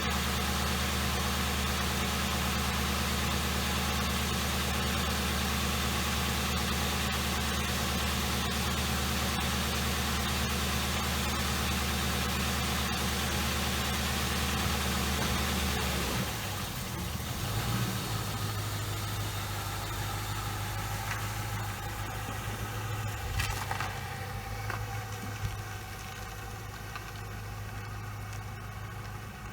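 2007 Ford Crown Victoria's 4.6-litre V8 idling steadily after a spark plug change meant to cure a misfire. About halfway through the engine note changes and turns quieter, then runs on steadily.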